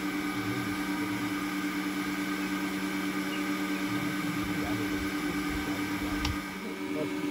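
A steady machine hum with a few constant tones, cut off just after a single click about six seconds in.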